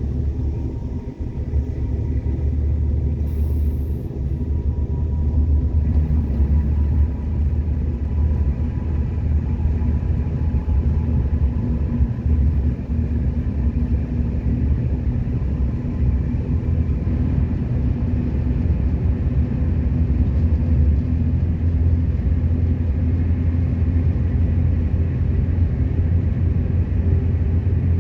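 Passenger train running steadily: a continuous low rumble of the rolling carriage, with a faint steady whine above it.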